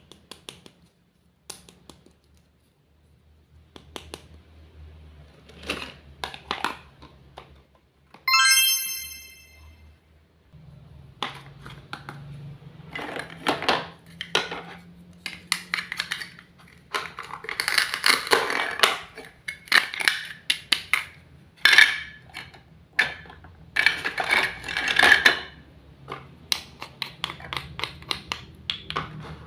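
Small kitchen utensils and toy kitchen pieces clicking, tapping and scraping in an irregular run of handling sounds, busier and louder in the second half. About eight seconds in there is a short bright chime that rings for about a second.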